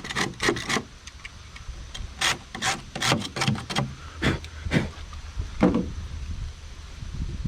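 Knife blade scraping the rough-cut edges of a sheetrock patch piece to trim it to fit, in a series of short, irregular strokes.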